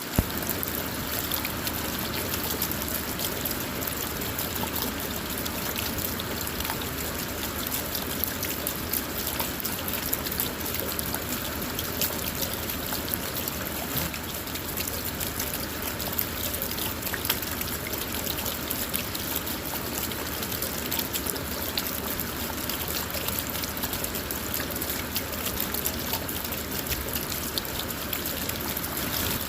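Steady rain falling on a car, a dense even hiss with many fine drop ticks.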